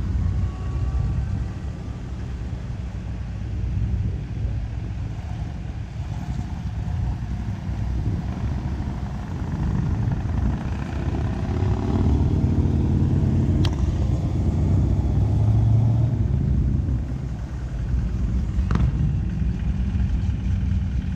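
Cars and trucks driving slowly past, their engines running low and steady; one passes louder through the middle of the stretch.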